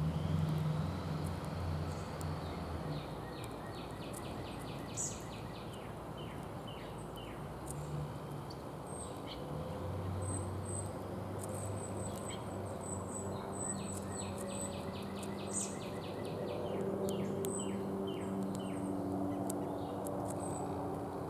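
Small songbirds calling. Twice there is a rapid trill of short chirps lasting a couple of seconds, over scattered thin, high chirps and a low steady hum.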